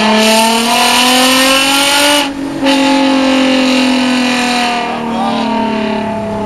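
Toyota Mark X's V6 with a one-off custom muffler pulling under throttle, its exhaust note rising in pitch for about two seconds. The note breaks off briefly, comes back and then slowly falls as the car eases off.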